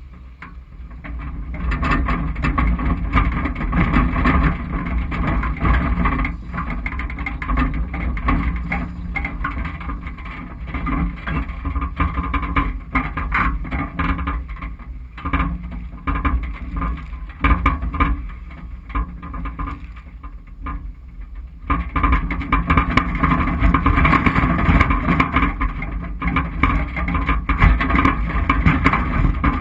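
Off-road SUV driving slowly over a rough dirt trail: the engine runs with frequent knocks and rattles from the body and suspension, and it gets louder and busier about three-quarters of the way through.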